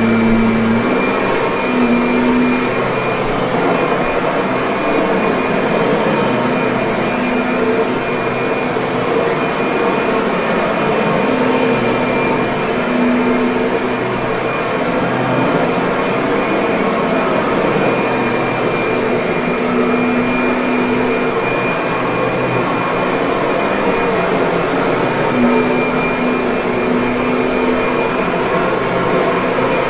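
Kirby vacuum cleaner motor running steadily, with a constant high whine and a low hum that swells in and out every few seconds.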